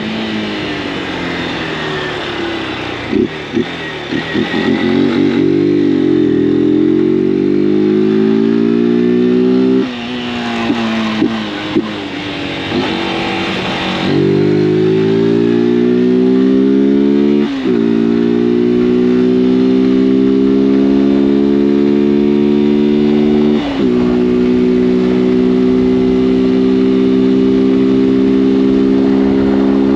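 Honda CG 160 Fan's single-cylinder four-stroke engine accelerating up through the gears, its pitch climbing in several pulls with a short dip at each shift, then settling into a steady cruise near the end.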